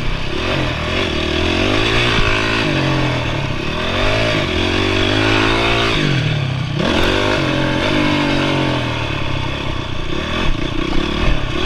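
Honda CRF450R single-cylinder four-stroke motocross engine repeatedly revving up and shifting down as the bike is ridden hard. The throttle is chopped about six seconds in and opened again, and a few sharp knocks come near the end.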